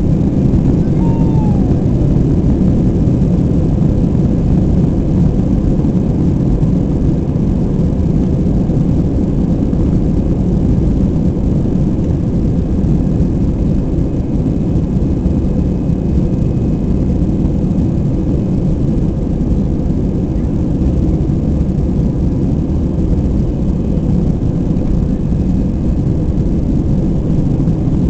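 Airbus A320 at takeoff power during the takeoff roll, a loud, steady low rumble of engines and runway noise.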